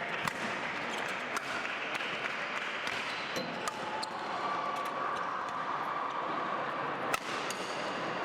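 Badminton rally on an indoor court: sharp cracks of rackets striking the shuttlecock at irregular intervals, the loudest a little after seven seconds, with a brief shoe squeak about five seconds in, over the steady background noise of the hall.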